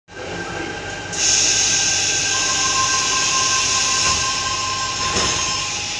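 Tangara electric train running, heard from inside the carriage. A loud hiss comes in about a second in, over steady high squealing tones.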